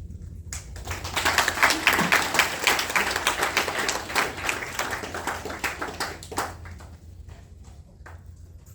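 Audience applause that swells up about half a second in, holds for several seconds, then dies away near the end into a few scattered claps.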